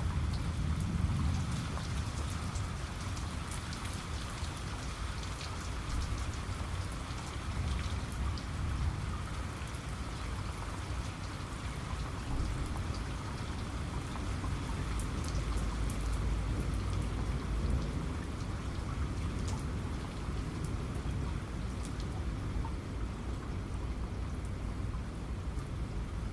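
Steady rain falling, with the patter of individual drops, over a low rumble of distant thunder that swells about halfway through.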